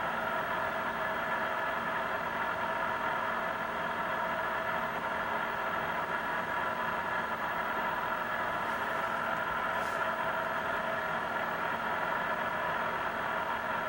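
Steady machinery hum of a deep-sea submersible's onboard equipment, heard from inside, holding many fixed tones that do not change.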